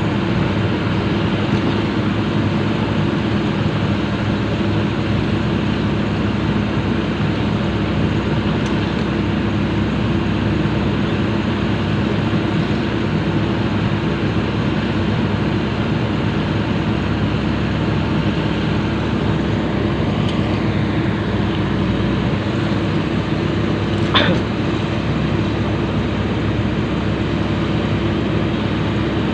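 Komatsu PC200 excavator's diesel engine running steadily, with one sharp metallic knock late on.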